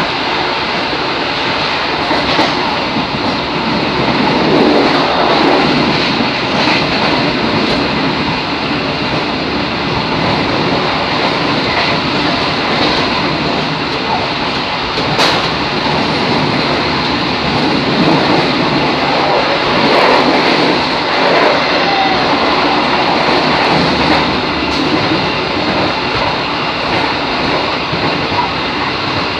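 KRD diesel railcar running along the track, heard from inside the train: steady wheel-and-rail running noise with a few sharp clacks over rail joints, the clearest about halfway through.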